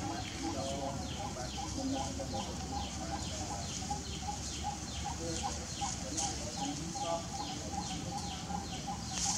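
Birds calling outdoors, one repeating a short falling note about twice a second, over a steady low rumble.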